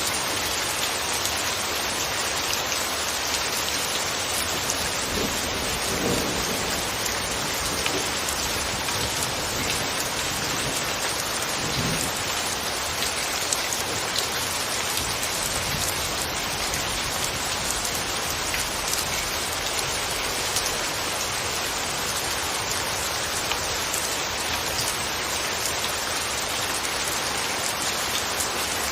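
Steady rain falling, a dense even patter with fine drop crackle. There are two brief low rumbles, about six and twelve seconds in.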